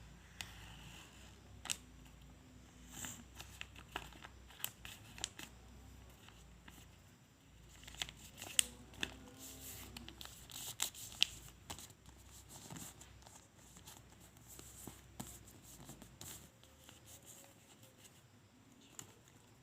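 A4 paper being handled and folded by hand: scattered crinkles, rustles and sharp creasing clicks.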